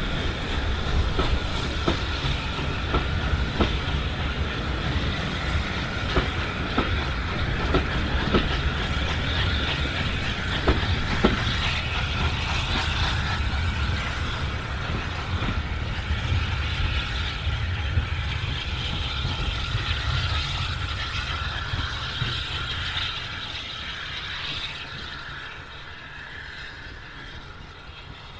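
Passenger coaches of a steam-hauled train rolling past, their wheels clicking over rail joints above a steady rumble. The clicks thin out about halfway through, and the sound fades over the last few seconds as the train draws away.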